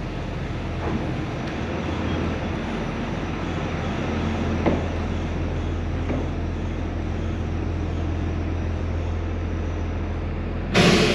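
A train rumbling steadily with a low, even drone, a few faint clicks, and a brief loud rush of noise near the end.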